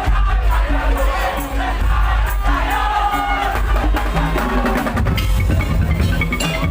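Madurese daul (tong-tong) music playing loud: heavy drums and beaten percussion under a gliding melody line.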